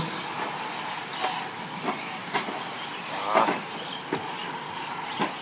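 Radio-controlled 4WD short course trucks racing on a dirt track: a steady hiss with short motor whines sweeping up and down as trucks pass, about six times.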